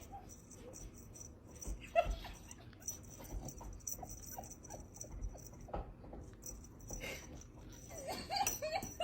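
A dog whimpering softly in short cries, a clearer one about two seconds in and several more near the end.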